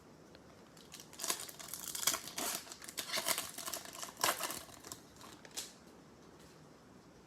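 Plastic wrapper of a Bowman baseball card pack being torn open and crinkled, a run of rustles and crackles from about a second in until near the end.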